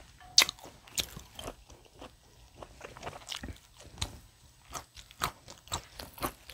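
Close-miked chewing and biting of tomahawk steak, heard as irregular sharp mouth clicks and smacks, a few a second.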